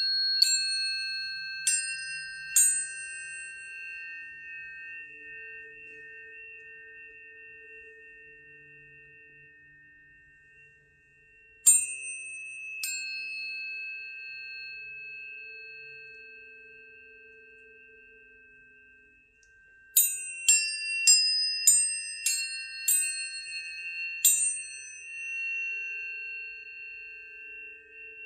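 Tuning forks struck one after another, each giving a sharp attack and leaving clear high tones ringing and slowly fading. A few strikes come at the start, two about halfway through, and a quick run of about eight near the end.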